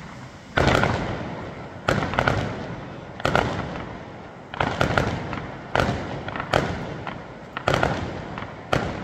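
Aerial fireworks bursting overhead: a rapid, irregular series of about ten sharp bangs, each trailing off in a rolling echo.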